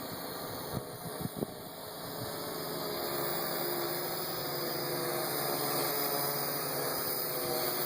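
Parrot AR Drone 2.0 quadcopter's electric rotors humming steadily as it circles overhead, getting louder about two to three seconds in. A few short knocks sound about a second in.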